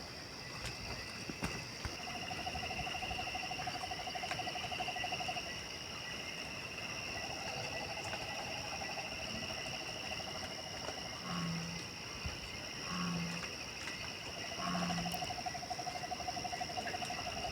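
Night-time countryside chorus: insects chirring steadily at a high pitch, a fast pulsing trill that starts and stops three times, and three short low hoots about a second and a half apart in the second half.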